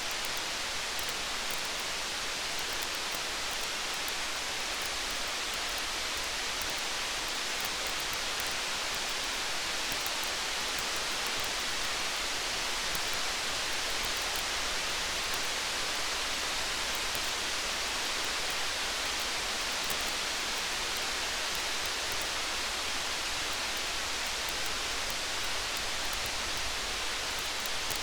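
Steady rain, an even hiss, with faint scattered ticks throughout.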